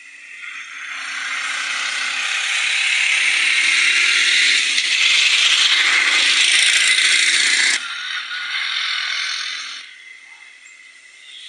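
Loud rattling, rushing noise of a motorbike ride. It builds up over the first couple of seconds, drops sharply about two-thirds of the way in, and fades near the end.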